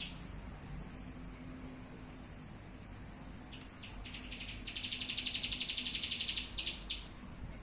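Pet bird calling: two sharp, high falling chirps about a second and a half apart, then a fast trill lasting about three seconds.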